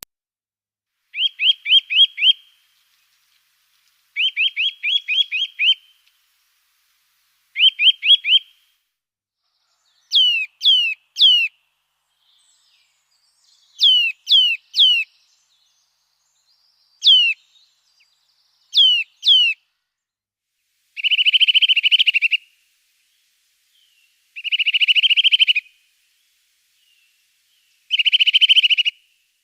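A small bird calling in separate bursts with silence between: quick runs of short falling notes, then sets of two or three high falling whistles, then three buzzy trills near the end.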